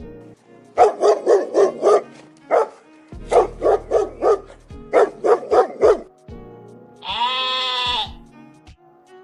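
A dog barking in three quick runs of about five or six barks each, then one long bleat about seven seconds in. Background music plays under them.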